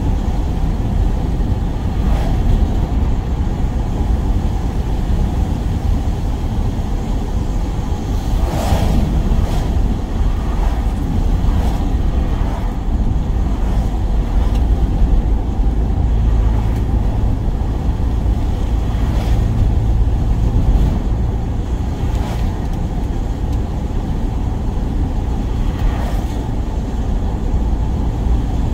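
Work van on the move: steady low road and engine rumble, with a few faint clicks or knocks here and there.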